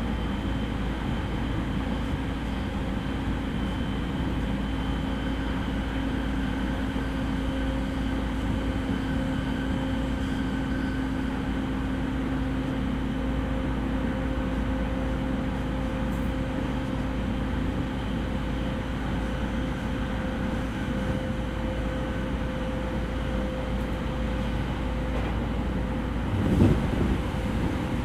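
Interior running sound of a JR East E231 series commuter train travelling at a steady speed: a continuous rumble of wheels on rail with a few steady hums that hold their pitch. A brief louder knock comes near the end.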